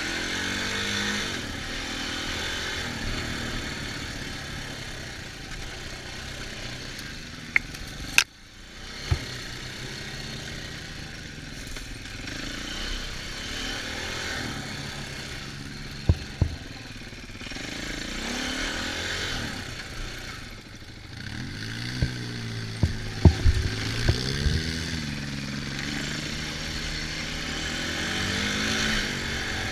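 Off-road vehicle engine revving up and down as it is ridden, with a few sharp knocks and clatters along the way, most of them bunched a little past the middle of the stretch.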